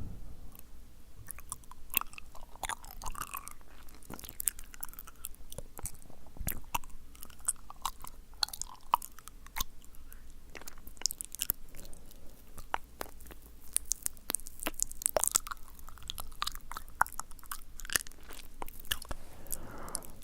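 Close-miked wet mouth sounds: many sharp, sticky tongue and lip clicks and smacks in quick, irregular succession, with soft breathy patches between them.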